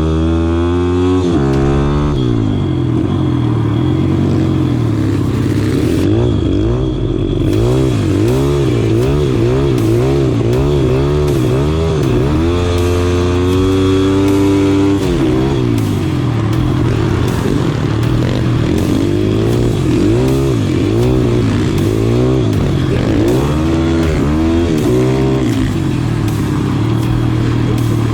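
Small four-stroke pit bike engine being revved up and backed off again and again as it is ridden hard, its pitch climbing and dropping about once a second, with one longer climb about halfway through.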